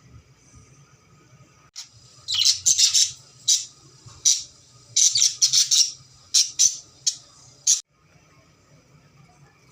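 Pet parrot squawking: a string of about ten loud, harsh screeches in quick clusters, starting about two seconds in and stopping abruptly near the end.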